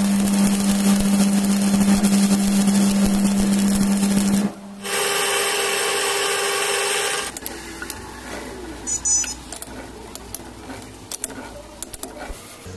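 An electric power tool motor runs steadily for about four and a half seconds and stops. It starts again briefly at a higher pitch and stops again. Scattered clicks and light knocks of metal handling follow.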